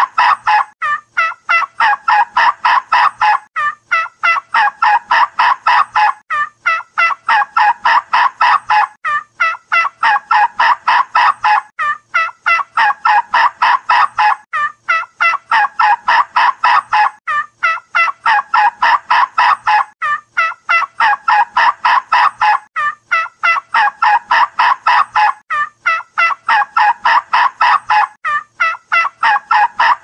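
A bird's rapid, pulsing call, repeated in even bouts of about two seconds with short breaks between them.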